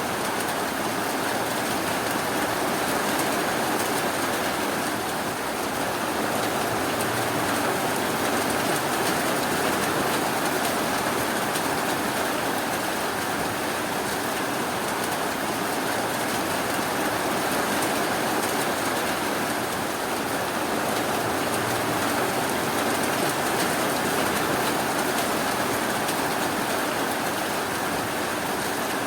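Steady rainfall, an even hiss.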